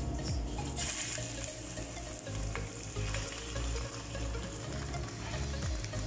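Spoonfuls of chicken-and-vegetable fritter mixture sizzling in hot cooking oil in a wok, the hiss starting about a second in as the mixture hits the oil, with a few light pops.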